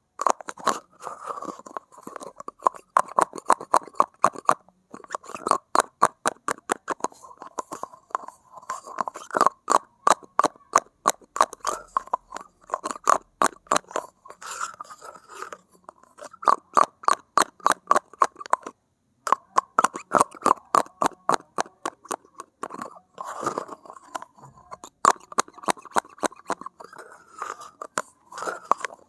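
Close-miked ASMR tapping on a hard object: quick runs of light taps, several a second, with short pauses about 5 and 19 seconds in.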